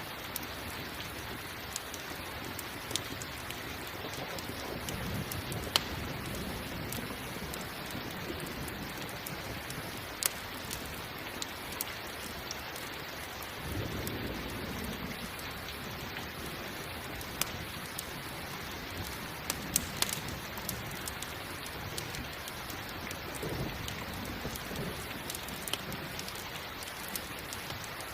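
Steady rain with the sharp, scattered pops and crackles of a campfire. Thunder rumbles low about halfway through and again near the end.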